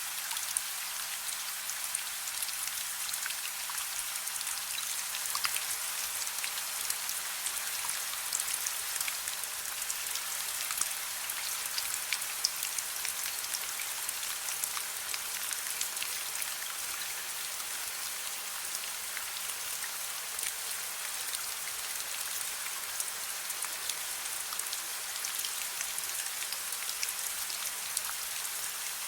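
Steady gentle rain: an even hiss of rainfall, thick with tiny drop ticks, that neither builds nor eases.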